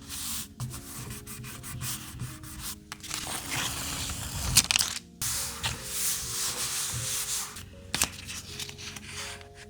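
Long rubbing or scraping strokes on paper or tape, each lasting two to three seconds with short breaks between, and a sharp click twice, over soft background music.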